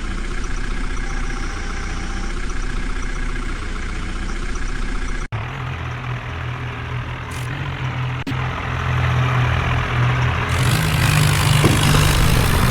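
Heavy machinery diesel engines running steadily. About five seconds in the sound cuts off abruptly and comes back as a lower, heavier engine note, which grows louder near the end.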